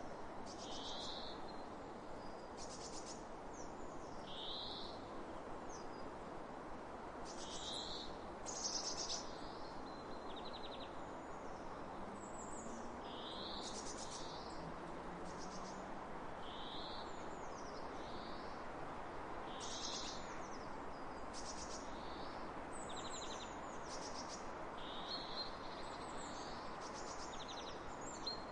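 Steady wind across open fields, with small birds calling over it again and again: short high whistles that slide downward, and brief rapid trills.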